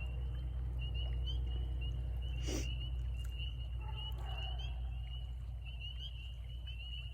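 Chorus of spring peepers: many short, high, rising peeps at about one pitch, overlapping continuously, over a steady low rumble. A single brief downward-sliding sound about two and a half seconds in.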